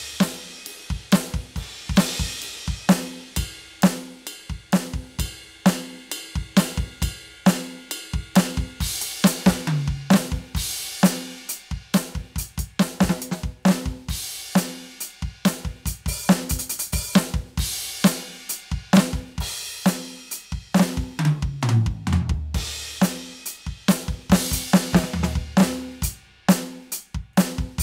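Roland TD-17KVX electronic drum kit played in a steady groove of kick, snare, hi-hat and cymbals. Descending tom fills come at the start, about ten seconds in, and again about twenty-two seconds in.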